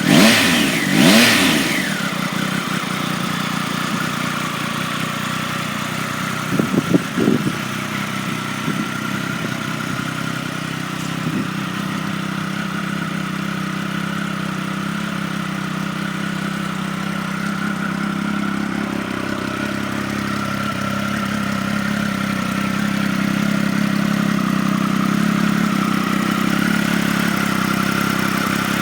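A Triumph Speed Triple's liquid-cooled 1,050 cc three-cylinder engine idling through Arrow aftermarket exhausts. The throttle is blipped twice sharply at the start and given a few quick short blips about seven seconds in, then the engine settles back to a steady idle.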